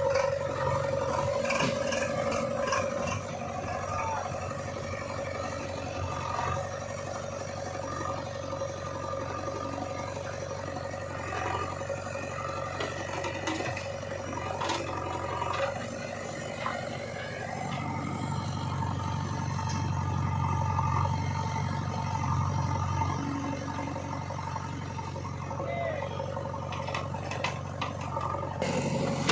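Diesel engine of a JCB 3DX backhoe loader running under load, with the engine note swelling from about 17 to 23 seconds and scattered clatters and knocks from the machine working as it loads mud.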